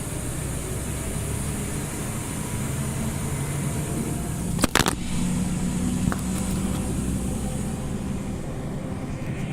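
Inside a moving Scania OmniLink CL94UB city bus: steady engine rumble and road noise, with a sharp double knock about halfway through.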